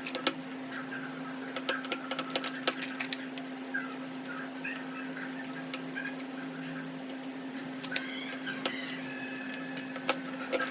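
Irregular clicks and taps of hand work on a Honda CG 125 carburettor's small metal parts, with short squeaks, over a steady low hum.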